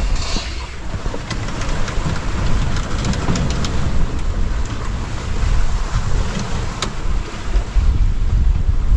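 Strong wind rumbling on the microphone over the rush of the sea around a small sailing yacht, with scattered sharp clicks and taps.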